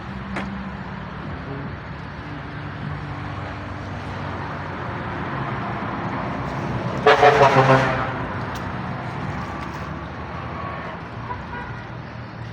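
A motor running steadily, with one loud horn blast lasting about a second, about seven seconds in.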